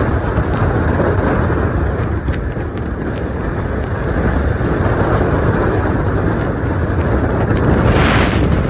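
Steady road noise of a car driving, with tyre and engine rumble, and a brief louder hiss near the end.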